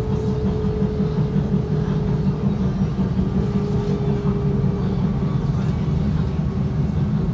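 Interior noise of a Sydney Trains electric passenger train running underground: a steady, loud rumble with a constant whine over it, heard from inside the carriage.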